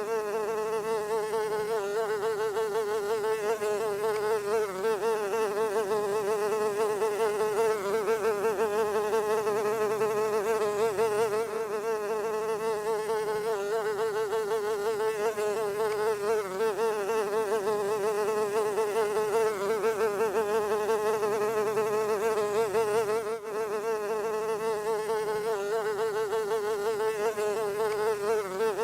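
A fly buzzing steadily in flight, its pitch wavering slightly, with a brief drop in level about 23 seconds in.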